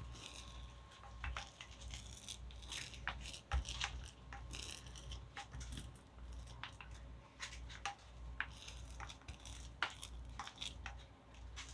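Titebond II wood glue being spread over the styrofoam hull: irregular scratchy, sticky strokes of the applicator with small crackles, coming in uneven bursts.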